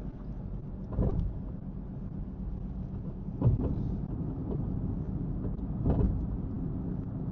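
Car driving, heard from inside the cabin: a steady low rumble of road and engine noise, with three brief thumps.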